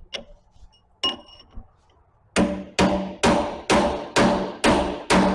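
Hammer striking a steel punch to drive out the cylinder's pivot pin, a couple of light clicks and then a steady series of ringing metal blows about two a second, starting a little over two seconds in.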